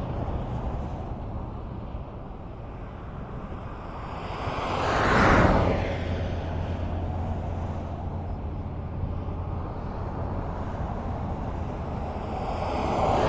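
Highway traffic: a steady rumble of tyres and engines, with one vehicle passing close about five seconds in, swelling and then fading. Another vehicle approaches near the end.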